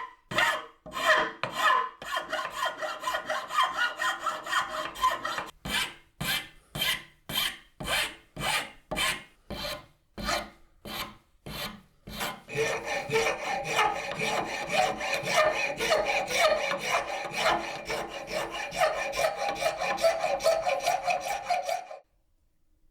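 Hand-abrading strokes, file or sandpaper, on the knife's wooden handle, about two a second at first. About halfway through they become quick, short strokes that stop abruptly near the end.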